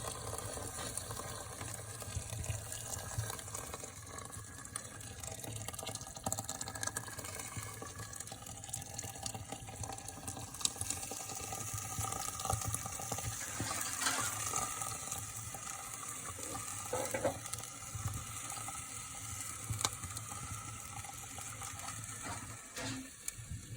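Water being added to a pot of bean stew cooking over a fireplace fire, the pot sizzling steadily with scattered small clicks.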